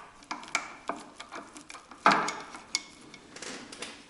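Irregular metallic clicks and clinks from a roller chain and sprocket drive being moved by hand, with one sharper clack about halfway through and a quick run of clicks near the end.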